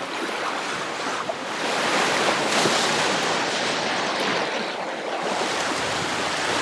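Sea rushing along the hull of a sailing yacht under way, with wind buffeting the microphone; the rush swells about a second and a half in and stays steady.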